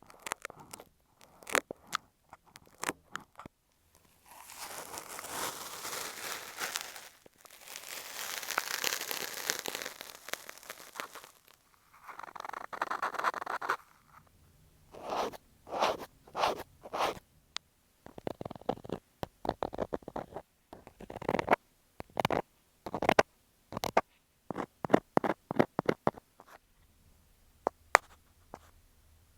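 Ear-cleaning tools, chiefly an ear pick, scratching, scraping and tapping directly on an earphone microphone. The sound starts as sharp clicks, then runs into two long, bright scrapes and a duller rubbing stretch, and ends as a run of quick separate scratches and taps.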